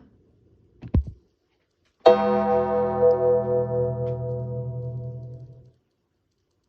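A deep bell tolls once, striking about two seconds in and ringing as it fades for about three and a half seconds before stopping, after a short low knock about a second in.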